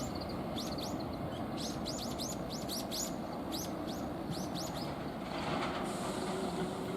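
Small birds chirping in quick, repeated calls over a steady low rumble. About five seconds in, a hiss and a faint steady tone swell up.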